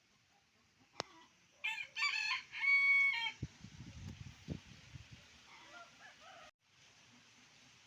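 A rooster crows once, starting about two seconds in with a choppy opening and ending on a held note. A sharp click comes just before it, and low rumbling follows.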